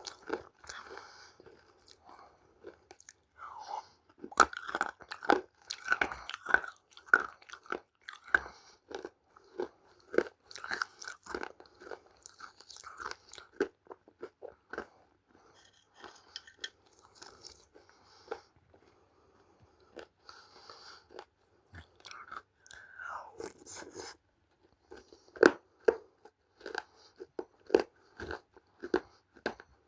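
Close-up crunching and chewing of dry clay being eaten: many sharp, irregular crunches as pieces are bitten and chewed, with a quieter spell in the middle.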